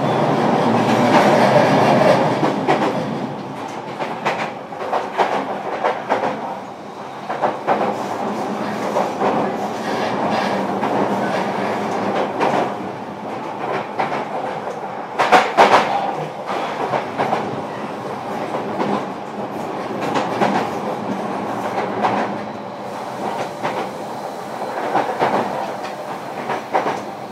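Running sound inside a JR Kyushu 305 series electric train's motor car under way: a steady rumble of wheels on rail with repeated clicks over the rail joints. There is a brief louder clatter about fifteen seconds in.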